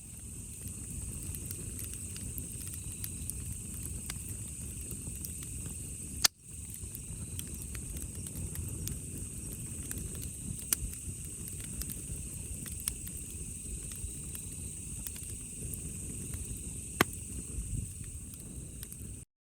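Wood fire crackling in a campfire stand, with scattered small pops over a steady low rumble; a sharp pop about six seconds in and another near the end.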